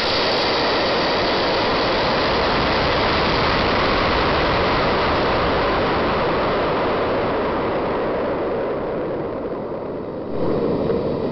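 Steady loud rush of wind over a small spy camera carried inside a model rocket in flight, dipping slightly near the end before swelling again.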